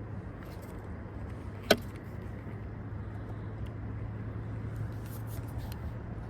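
A boat motor running with a steady low hum. One sharp click or knock sounds about two seconds in.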